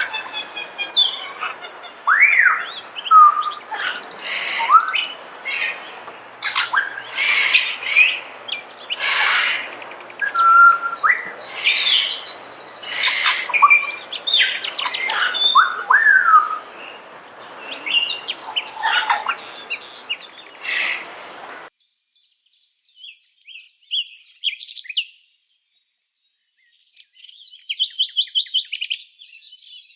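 Several birds chirping and whistling over one another, with quick rising slurs and short trills. The sound cuts off abruptly about two-thirds of the way through, leaving a few faint calls, and a rapid chattering series of notes starts near the end.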